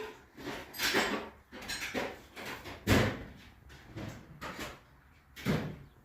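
Handling noises: a series of short scrapes and knocks, the loudest about three seconds in.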